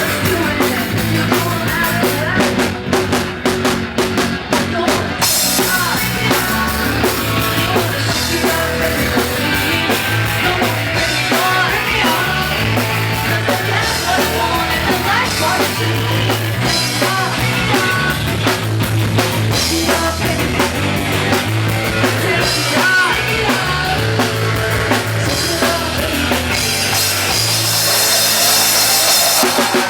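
Rock music with a steady beat on a drum kit, the band growing fuller about five seconds in.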